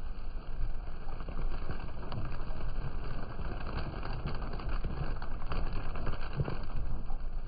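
Hard rain falling, with many close drops ticking against something near the microphone over a steady low rumble of wind on the microphone.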